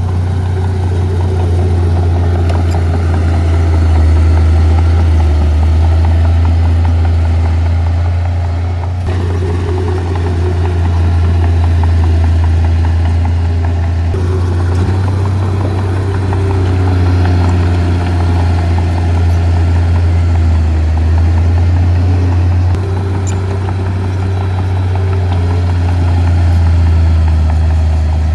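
Heavy diesel engine of earthmoving machinery running steadily, a deep constant drone with a few abrupt shifts in its sound.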